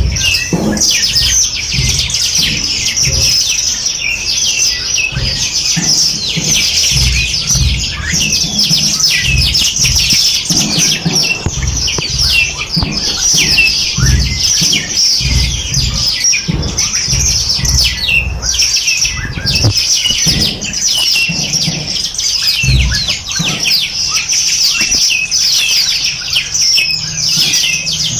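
Many small birds chirping and twittering at once in a dense, continuous chorus of short, quick notes. Low, irregular rumbles sit underneath.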